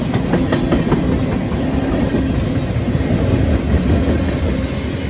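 Freight train of tank cars rolling past close by: a steady rumble of steel wheels on the rails, with quick clicks in the first second as wheels pass over rail joints.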